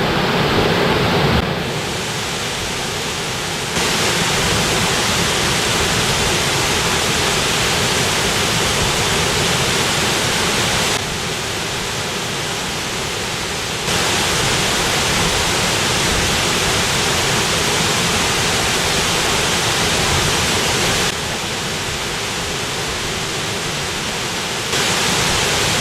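Waterfall: a loud, steady rush of falling water, which steps abruptly louder and quieter every few seconds.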